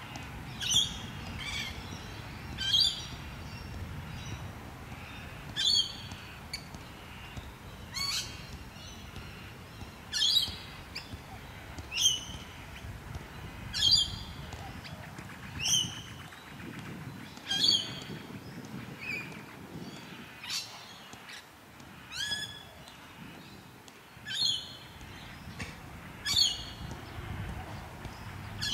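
A bird calling over and over, one short high call falling in pitch about every two seconds, over a steady low background noise.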